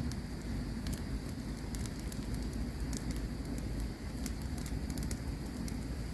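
Campfire crackling: irregular sharp pops and snaps, several a second, over a low steady rumble of the burning fire.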